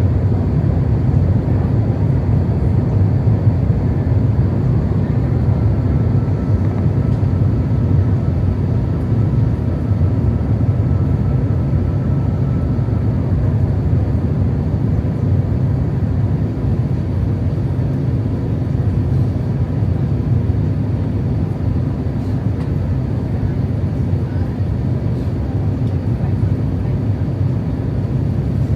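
Steady low rumble of cabin noise inside an Airbus A350-900 on approach, airflow over the fuselage and its Rolls-Royce Trent XWB engines. A faint thin whine rides over it for several seconds in the first half.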